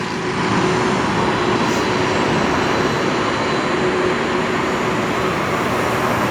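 Steady rushing jet engine noise with a faint hum from a Boeing 767 freighter coming in to land.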